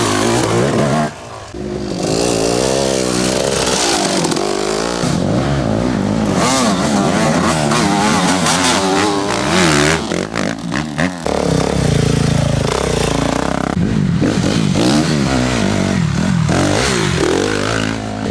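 Off-road enduro motorcycle engines revving hard, the pitch rising and falling again and again with the throttle. The sound briefly dips about a second in and again just past the middle.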